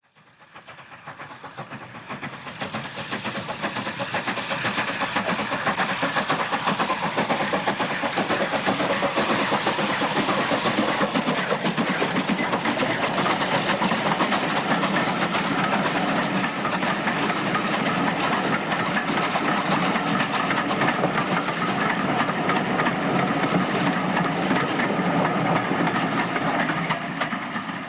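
Steam train running, a steady dense noise that fades in over the first few seconds and fades out near the end.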